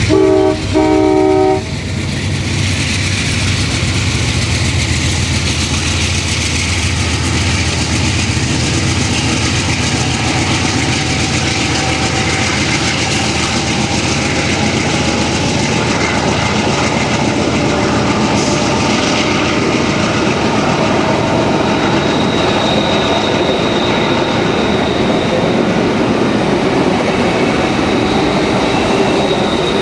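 A diesel train sounding two short horn blasts, then rumbling past with a steady rolling clatter of wheels on rails. From about two-thirds of the way through, a thin high squeal of wheels runs over the clatter.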